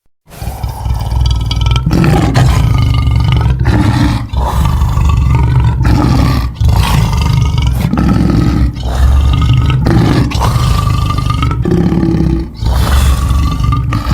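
Monster roar sound effects for the Supergator, a giant crocodile creature: a string of about seven loud, rough roars, one after another, with short breaks between them.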